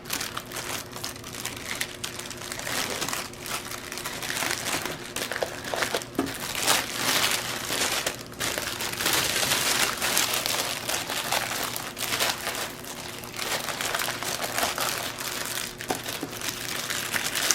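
Plastic packaging crinkling and crackling continuously as it is handled and turned over.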